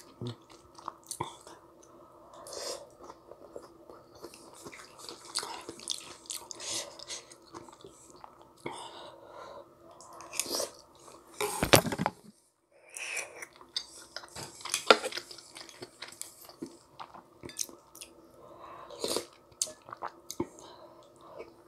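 Close-up eating sounds of spicy ramyun with rice cakes: chewing and biting with many small wet clicks and smacks. One much louder sharp mouth sound comes about halfway through and another a few seconds later.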